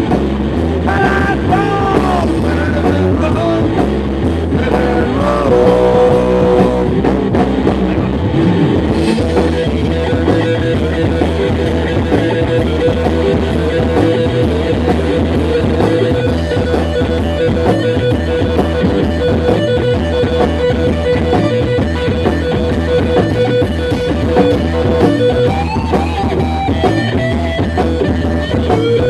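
Rock band playing an instrumental passage: guitar over bass and a steady drum kit beat, with a sustained guitar line holding one pitch through much of it.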